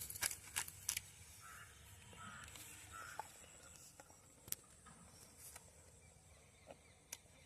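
Quiet outdoor background with a few sharp clicks in the first second, then a crow cawing faintly three times, evenly spaced.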